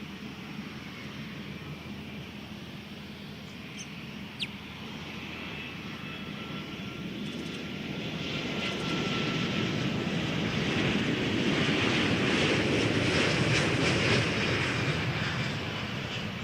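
Twin-engine widebody jet airliner passing on the runway, its engine noise swelling to a peak and then easing away.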